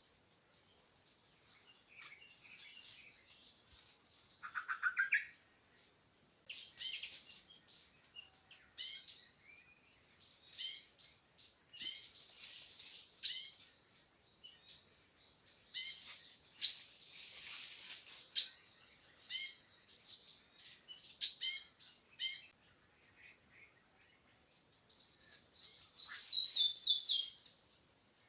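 Outdoor insect chorus, a high-pitched cricket-like call pulsing steadily about once a second, with wild birds calling over it: short repeated chirps through the middle, a quick trill early on, and a louder, descending trill near the end.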